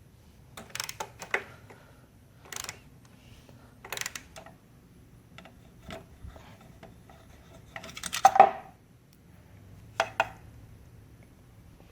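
Irregular clicks and clinks of small metal mower parts and hand tools being handled and set down, with a louder short clatter about eight seconds in.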